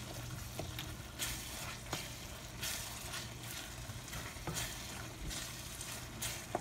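Minced chicken and brain sizzling in oil in a deep pan while a wooden spatula stirs and scrapes through it, with a few short knocks of the spatula against the pan. The qeema is being fried down (bhuna) with splashes of water.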